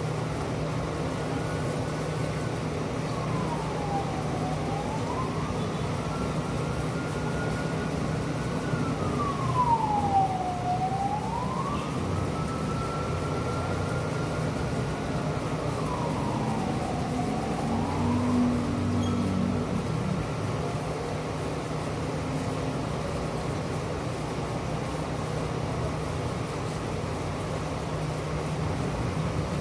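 Steady rain hiss over a low steady hum, with an emergency-vehicle siren wailing, its pitch sweeping down and back up three slow times before it fades out about two-thirds of the way through.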